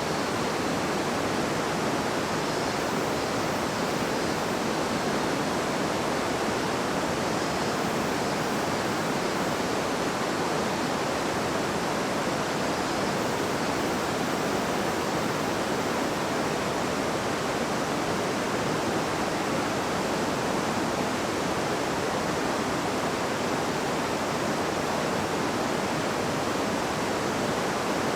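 River water babbling and rushing over stones, a steady even rush with no breaks or changes.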